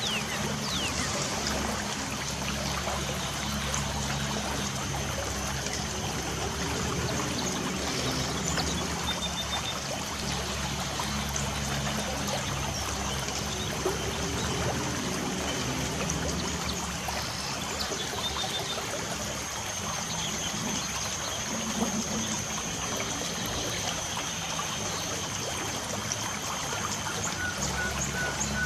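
Light rain falling with trickling water, a steady even hiss. Birds chirp now and then over it, with a short run of quick repeated notes near the end.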